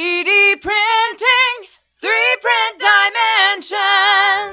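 A woman singing two melodic phrases with vibrato and a short break between them, with no instruments heard.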